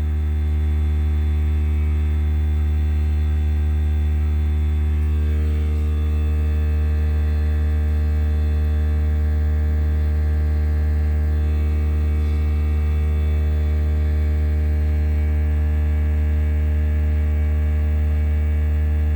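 Air compressor running steadily, a loud even hum, as it builds its tank pressure back up; a higher tone joins in about five seconds in.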